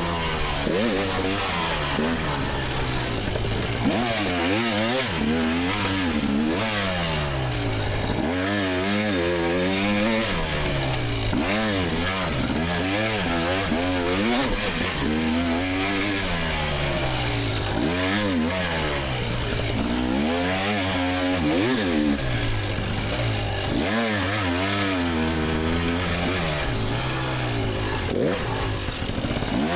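2024 GasGas EX300 300cc two-stroke dirt bike engine revving hard and falling off again and again as it is ridden through a race course, its pitch rising and dropping every second or two.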